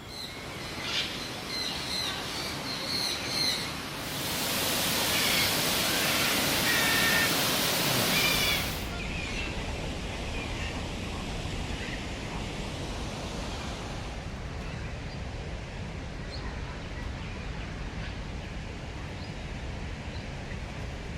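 Birds chirping and calling in short repeated notes over a steady outdoor background. About four seconds in, a loud rushing hiss sets in and cuts off about five seconds later, with chirps still heard over it.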